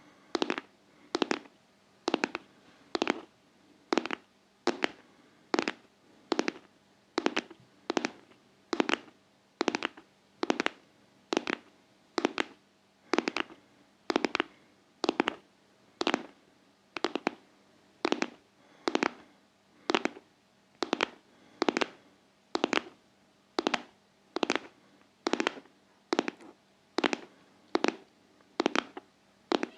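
Intense ASMR tapping: sharp, even taps at about one a second in a steady rhythm.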